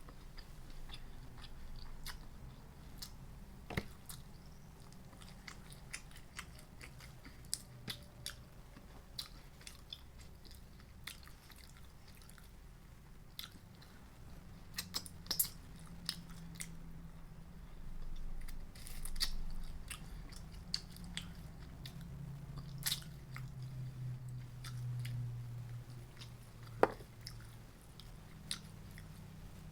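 Close-miked eating sounds: chewing and biting food, with frequent short sharp mouth clicks and smacks.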